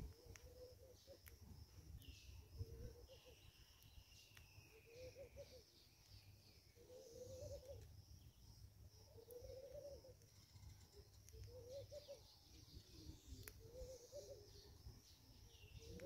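Faint birdsong: a low call repeated about every two seconds, with a high whistle that glides down about three seconds in and again near the end.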